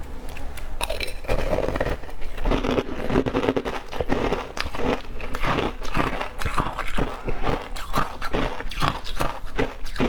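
Shaved ice being bitten and chewed: a dense run of crunches, several a second, irregular.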